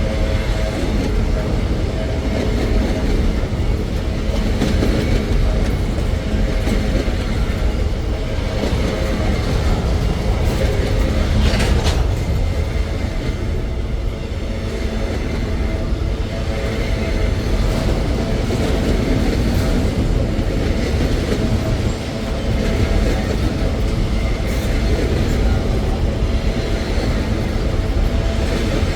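Freight train rolling past on the track: a steady rumble of wagons on the rails, with one brief sharp noise about twelve seconds in.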